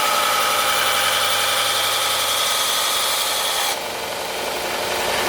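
Wen 6x48 belt sander running with a steel knife blade held to the belt in a bevel jig, grinding with a steady hiss over the motor hum. About three-quarters of the way through the grinding hiss cuts off suddenly while the sander keeps running.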